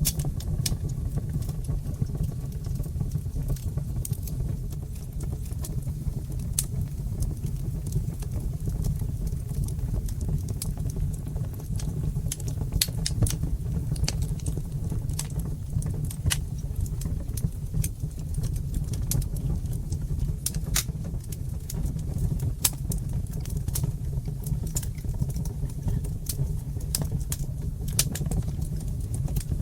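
Fire in a brick fireplace crackling, with frequent sharp, irregular pops and snaps over a steady low rumble of the flames.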